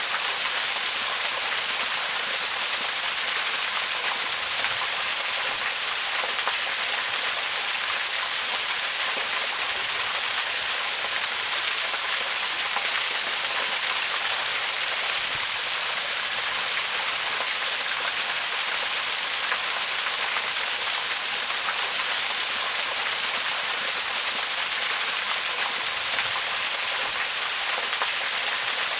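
Waterfall: a steady, unbroken rush of falling water, a dense hiss heaviest in the upper range with little low rumble.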